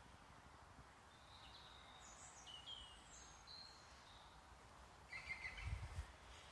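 Faint birds chirping outdoors: a few short, thin, high chirps and whistles over a low background hiss. Near the end come a few soft low thumps with a brief scratchy rustle.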